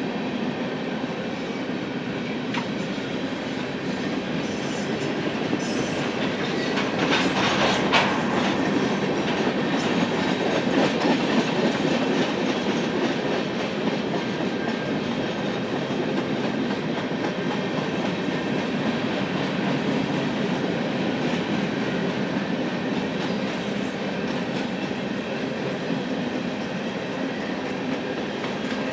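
Freight cars of a Union Pacific manifest train rolling steadily past, wheels clacking over the rail. The sound swells for a few seconds about a quarter of the way in, with a brief sharp high sound in that stretch.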